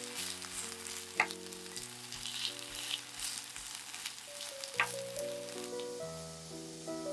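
Shredded potato pancake sizzling in olive oil in a nonstick frying pan, a steady hiss of frying on its second side. Background music with a simple melody plays over it, and two sharp clicks stand out, about a second in and again near five seconds.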